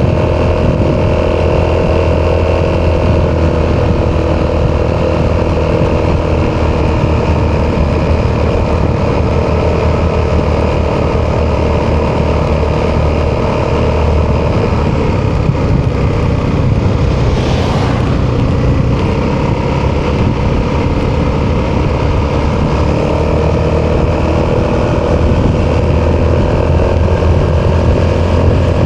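Italjet Dragster 200 Malossi Edition's single-cylinder four-stroke engine running through an Akrapovic exhaust while riding. A little past halfway the engine note drops lower for several seconds, with a brief hiss, then rises again near the end.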